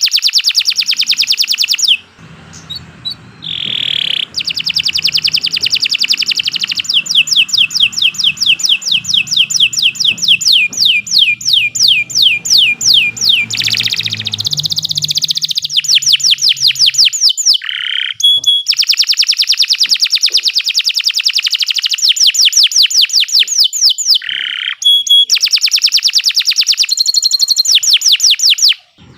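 Domestic canary singing a long, continuous song of rapid trills and rolling runs of repeated notes, breaking off briefly a few times before starting again.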